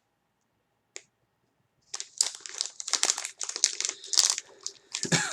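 Snack bag crinkling and rustling as it is handled and opened. The crinkling starts about two seconds in, after a near-silent stretch broken by a single click.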